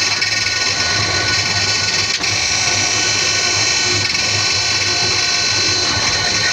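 Alimak rack-and-pinion elevator running: a steady mechanical drive noise with a constant high whine and a pulsing low hum, and one brief click about two seconds in.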